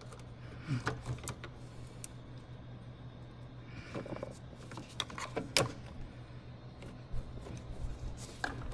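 Scattered light clicks and knocks of plastic parts and clips being handled and worked loose in a car's engine bay, over a steady low hum.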